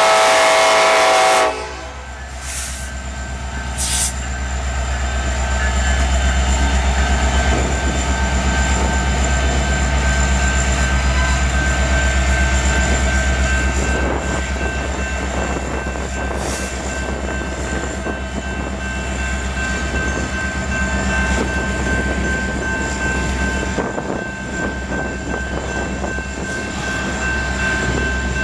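A BNSF SD70ACe diesel locomotive's horn sounding for a grade crossing, cutting off about a second and a half in. Then the locomotive's engine rumbling and loaded coal hopper cars rolling past, with wheels clicking over the rail joints.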